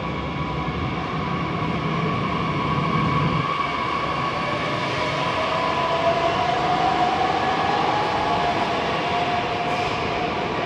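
A train moving past on the station tracks: a steady running noise with a high whine that rises in pitch about halfway through and then holds.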